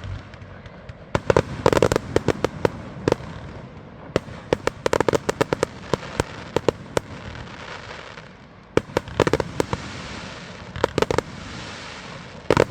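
Fireworks display: clusters of rapid sharp bangs from aerial shells over a continuous crackle, easing briefly about two-thirds of the way through before another burst of reports.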